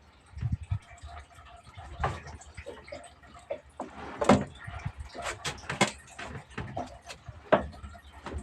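Irregular knocks, taps and clatter of fishing gear being handled on a small boat, with the loudest knocks about four, six and seven and a half seconds in.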